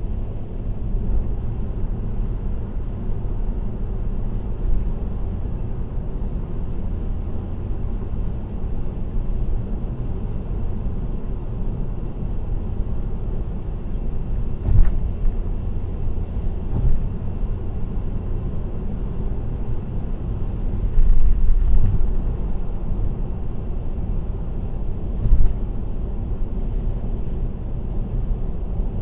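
Steady road noise of a car driving on an expressway: a low rumble of tyres and engine. A few short thumps come about halfway through and again near the end.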